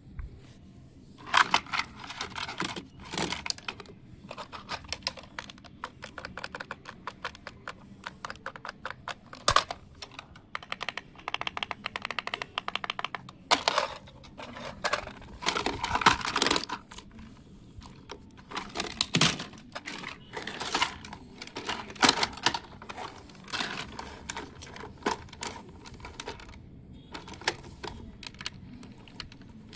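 Hard plastic toy RC car bodies and parts being handled, with irregular clicks, knocks and clatters, some in quick rattling runs.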